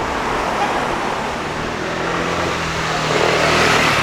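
A motor vehicle driving past close by on a city street, its engine hum and tyre noise growing louder to a peak near the end, over general traffic noise.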